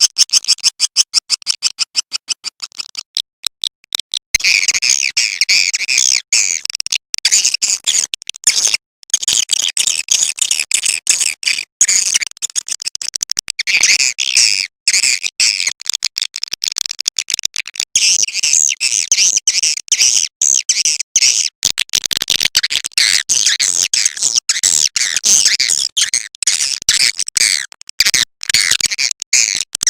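Swiftlet calling-sound recording, the kind played to lure swiftlets into a nesting house. It opens with a fast train of dry clicks. From about four seconds in come dense, overlapping high twittering chirps, still broken by clicks.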